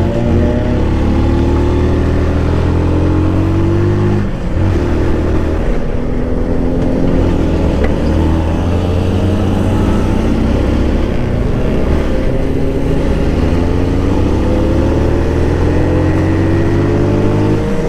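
Benelli motorcycle engine pulling under acceleration, its pitch rising steadily. About four seconds in it dips briefly as it shifts gear, then climbs slowly again, with another shift near the end.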